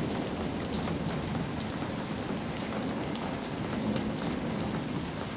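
Steady rain falling during a rain storm, with scattered sharp drip ticks over an even hiss.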